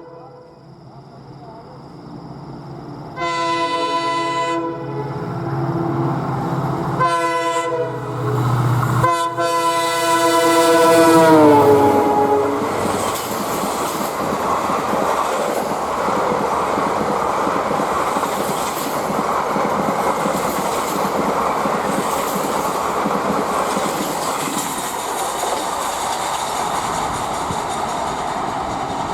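Indian Railways train sounding its horn as it approaches: a faint blast, then three loud blasts, the last one held and dropping in pitch as the train reaches the listener. After that comes the steady rush and clatter of the train running past.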